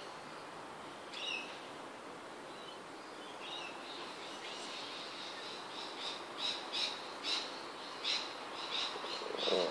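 Birds chirping, short high calls that repeat quickly in the second half, over a steady background hiss.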